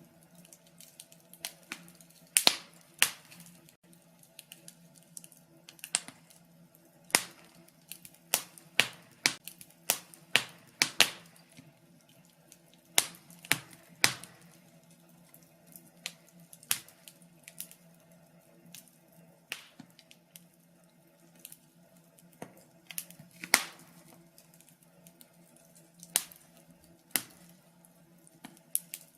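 Wood fire crackling in a fireplace: irregular sharp pops and snaps, sometimes several in quick succession, over a faint low steady hum.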